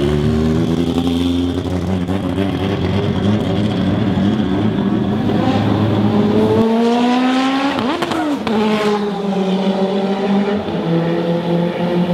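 Race car engine at high revs accelerating down the track, its note climbing. It passes close about eight seconds in with a clear drop in pitch, and then another engine note climbs again near the end.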